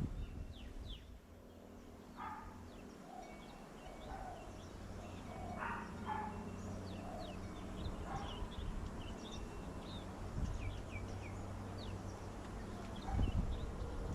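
Several birds calling and chirping: many short, high chirps and falling notes, with a few louder, fuller calls now and then, over a steady low hum of background noise.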